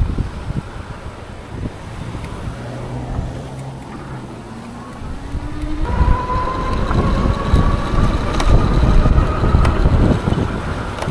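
Wind buffeting the microphone during a ride on an XP 3.0 e-bike, with the electric motor's whine rising in pitch: faint a few seconds in, then clearer and louder, together with stronger wind, from about halfway.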